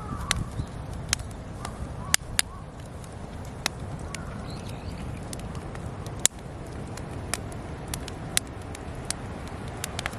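Wood campfire crackling, with irregular sharp pops over a steady low rush of flame, one pop much louder about six seconds in. Faint bird chirps at the start and again around the middle.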